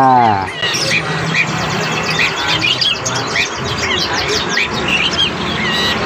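Many caged birds chirping: short, quick chirps overlapping one another throughout, over a low steady hum.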